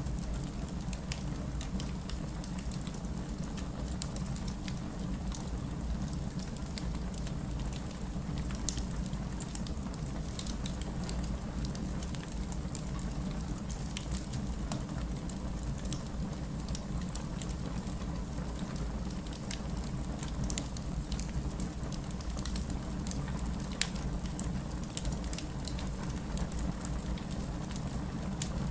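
A wood fire burning in a fireplace: a steady low rumble of flames under a constant scatter of sharp crackles, with a few louder pops from the burning logs.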